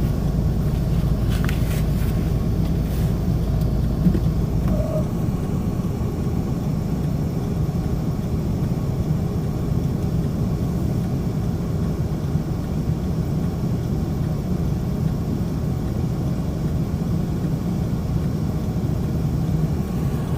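Steady road and engine noise inside a moving car's cabin: a low rumble that eases a little about five seconds in.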